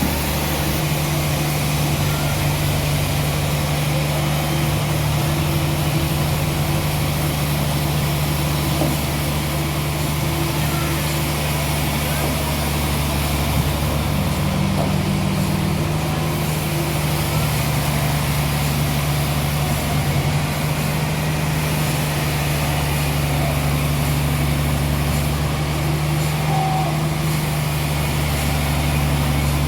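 Sawmill machinery with a large engine running at a steady speed: a constant low hum under an even hiss, with no change in pace.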